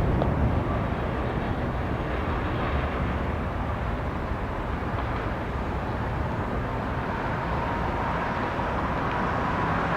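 Steady rumbling engine noise of a departing airliner climbing out, easing a little midway and then holding.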